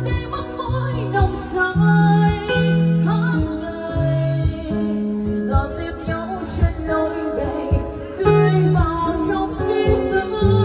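Instrumental break of a Vietnamese ballad played on an electronic keyboard: a plucked-string lead melody over held bass notes and a steady beat.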